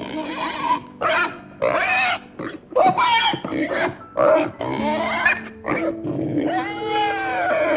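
Domestic pig squealing and grunting in a run of about nine short calls, the longest near the end, over steady background music.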